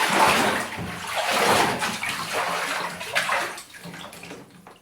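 Water in a tub being churned up by hand into rough waves, sloshing and splashing unevenly, then dying down near the end.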